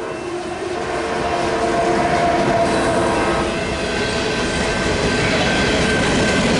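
Union Pacific freight train passing close by: its trailing diesel locomotives, then loaded covered grain hopper cars rolling past with a steady rumble of wheels on rails. The rumble grows louder over the first two seconds, then holds steady.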